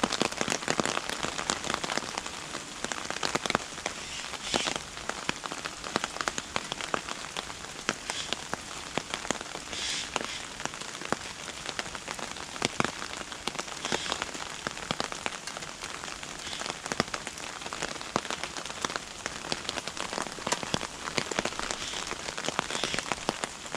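Steady rain, with many separate drops ticking sharply on surfaces close by.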